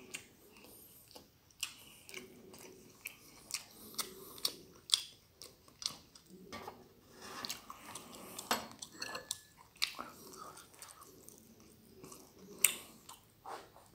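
Close-up chewing of a mouthful of stir-fried glass noodles with goat meat and tomato, with irregular mouth clicks and smacks several times a second.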